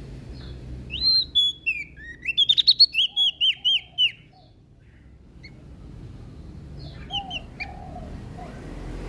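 Prenjak daun (a leaf warbler) singing: a quick burst of high chirps and down-slurred whistled notes lasting about three seconds, then a pause and a few shorter notes near the end, over a faint low hum.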